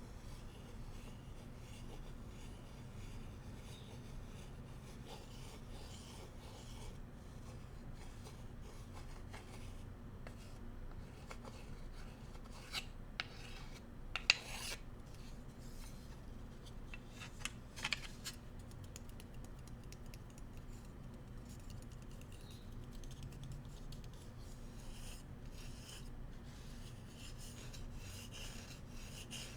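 Bamboo cooking utensils being rubbed and scratched with a faint rasping sound. A few sharp clicks come about halfway through, where the wood knocks.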